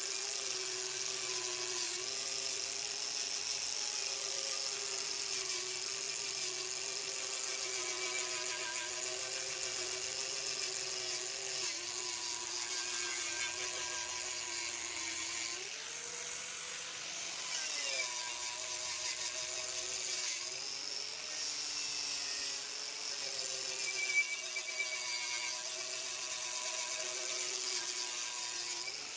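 A small, high-speed power tool running steadily with a high hiss, its whine dipping in pitch several times, near the middle and again a few seconds later, as it is loaded against the work.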